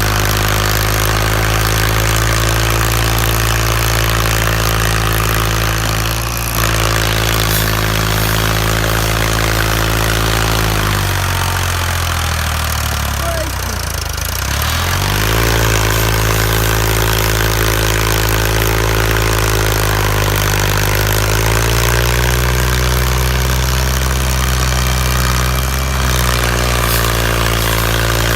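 Ford farm tractor's diesel engine running hard under the load of a heavy trolley. About eleven seconds in, its revs sag sharply for a few seconds and then climb back, and they rise again around twenty seconds in.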